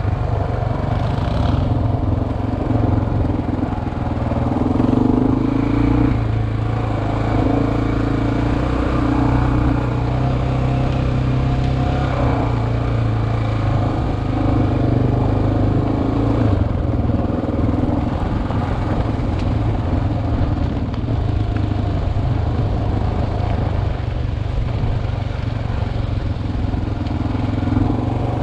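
Single-cylinder dual-sport motorcycle engine running at a fairly steady, moderate pace, its pitch rising and falling a little, heard from a helmet-mounted camera.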